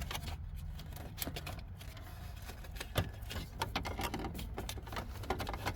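Irregular light clicks and taps of wiring and plastic dash parts being handled as a harness is fed through the dash, over a steady low hum.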